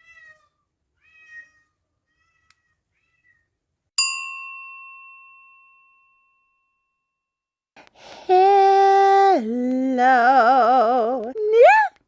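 A bell rings once about four seconds in and dies away over about two seconds. From about eight seconds, long, loud vocal notes follow, some held level and some wavering, sliding up near the end.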